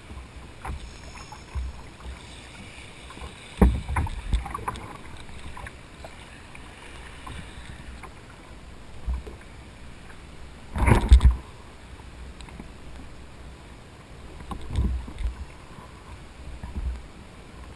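Water and handling noise aboard a fishing kayak: low knocks and bumps against the hull, the loudest about eleven seconds in.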